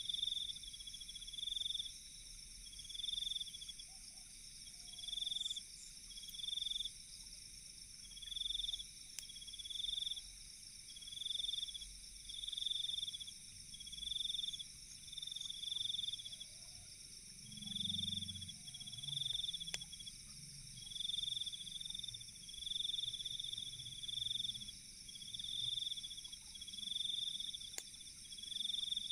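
Night insects calling, with a steady high-pitched drone and a louder trill repeating about every second and a half, in the way of crickets. A few faint pops from the campfire break in now and then.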